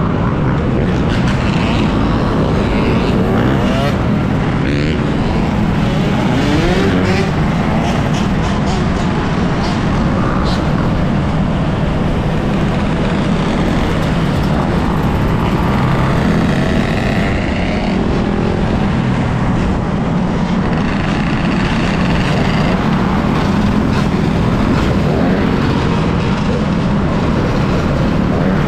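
Riding noise from an off-road motorcycle: a loud, steady rush of wind and road noise, with the motor's pitch rising and falling now and then.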